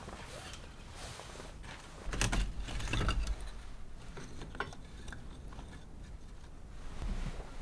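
Scattered light clicks and clinks of objects being handled, with a low rumble for about a second starting about two seconds in.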